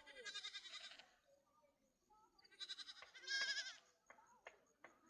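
Animals bleating: about three quavering bleats, with a few faint clicks near the end.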